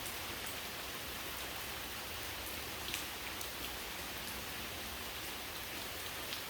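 Steady rain falling, an even hiss with a few louder drops ticking, the clearest about three seconds in.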